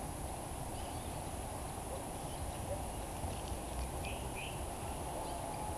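Quiet outdoor ambience with a low steady rumble, and a few short, high bird chirps, the clearest two about four seconds in.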